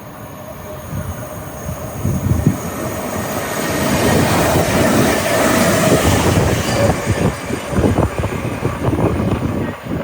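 A passenger train running through the station at speed without stopping. It builds from about two seconds in and is loudest in the middle, with a rapid rhythmic clatter of wheels over the rail joints and a faint steady whine.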